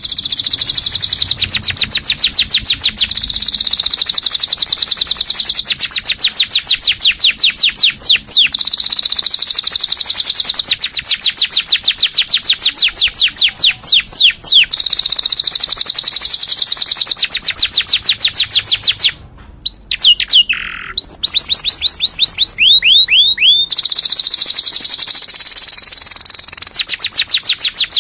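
Canary singing long, rapid trills of fast repeated high notes, one roll after another. About two-thirds of the way through it breaks off briefly, gives a few sweeping whistled notes, then goes back into trills.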